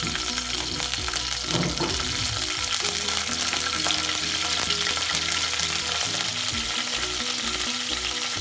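Curry leaves sizzling and crackling in hot oil in a nonstick pan, a steady frying hiss with many small pops.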